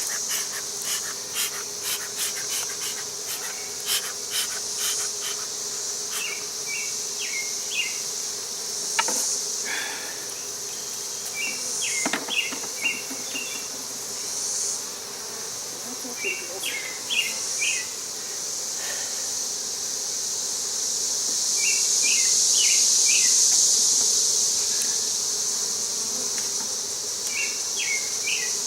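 Honey bee colony buzzing as a steady hum while its comb is opened up, with a few light clicks and knocks in the first few seconds. A constant high-pitched insect buzz runs underneath and swells for a few seconds past the middle.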